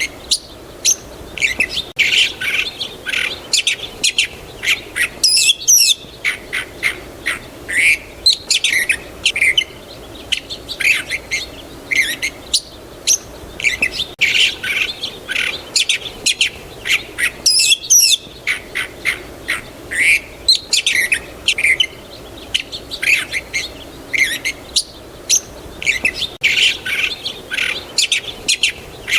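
A dense chorus of small songbirds chirping and calling, many short high chirps overlapping. The same stretch of recording comes round again about every twelve seconds.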